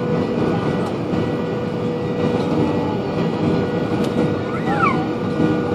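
Steady cabin noise inside an Airbus A320: the even rush of the engines and airflow, with a steady hum running through it.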